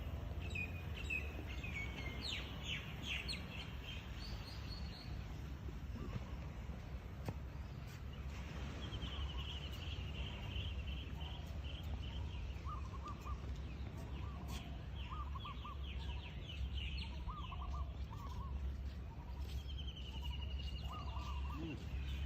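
Birds calling: runs of quick high chirps every few seconds, joined from the middle on by short groups of lower chirps, over a steady low rumble.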